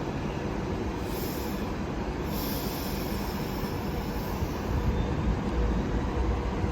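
Train moving through a station with a steady low rumble. A high-pitched wheel squeal comes in briefly about a second in and again from about two seconds until about five seconds. The rumble grows louder near the end.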